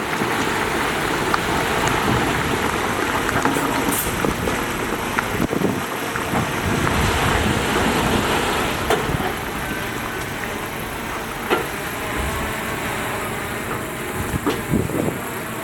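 Heavy earthmoving machinery running steadily, a continuous engine noise with a few sharp knocks.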